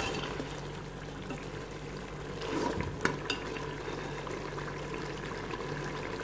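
Beef frying in oil in a metal cooking pot, a steady sizzle, at the bhuna stage after the water has cooked off. A steel spoon clinks against the pot a couple of times about three seconds in.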